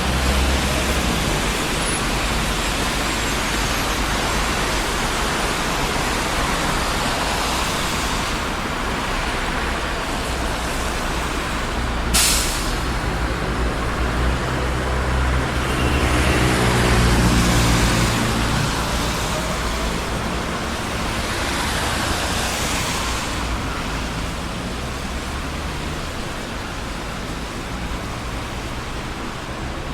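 Heavy city street traffic: a steady wash of vehicles passing, with a brief sharp hiss about twelve seconds in and a heavy vehicle's engine passing, loudest around the middle.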